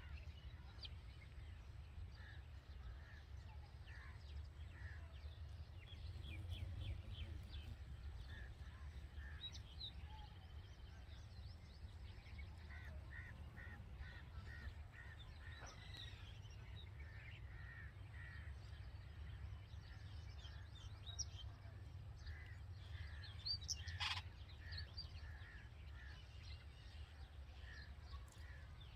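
Red-vented bulbuls at the nest giving faint, repeated short chirps, scattered irregularly, over a steady low rumble. A single sharp click comes near the end.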